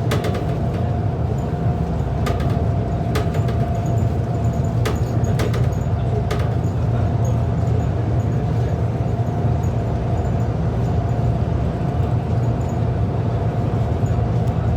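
City bus in motion, heard from inside the cabin: a steady low drone with a constant whine over it, and a handful of sharp rattles or clicks in the first six seconds.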